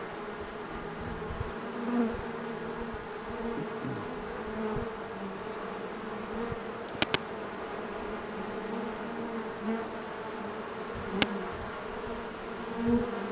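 Honey bee swarm buzzing steadily in the air as the bees fly around and orient to a swarm box, with single bees swelling louder as they pass close. A sharp double click comes about seven seconds in and another click a few seconds later.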